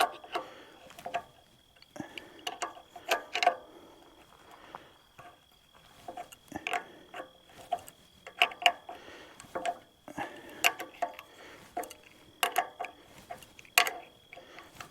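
Ratchet wrench clicking in short irregular bursts as a bolt is tightened back up on an excavator part.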